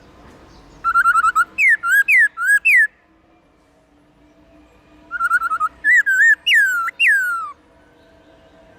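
Black-throated laughingthrush singing: two loud whistled phrases, each opening with a quick run of short notes and ending in three clear notes that slide downward.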